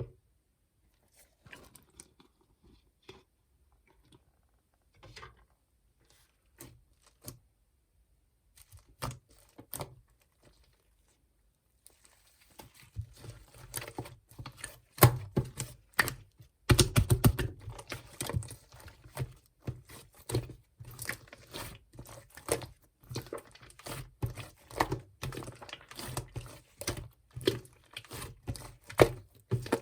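Clay slime being pressed and squished by hand, making sticky crackling clicks: only scattered clicks at first, then a dense, continuous crackle from about halfway through.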